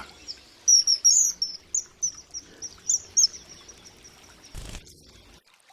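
Common kingfisher giving a rapid series of short, shrill, high-pitched piping calls for about two and a half seconds. A brief soft noise follows about four and a half seconds in.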